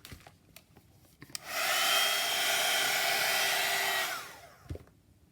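Handheld hot-air dryer drying freshly inked paper: switched on about a second and a half in, a steady blowing noise with a faint high whine, then switched off near the end, its whine falling as the fan spins down. A soft knock follows.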